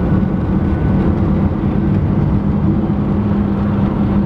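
2000 Subaru WRX GC8's turbocharged 2.0-litre flat-four running at a steady pitch on the move, heard from inside the cabin with road rumble. The car will not rev or boost properly and noses over under load, which the driver suspects is a fuel delivery or injector problem.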